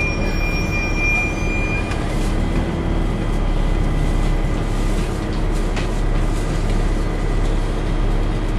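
Engine cooling fan of a Volvo B7TL bus (Wright Eclipse Gemini body) running with a steady hoover-like drone, heard from inside the bus. A high steady whine over it stops about two seconds in.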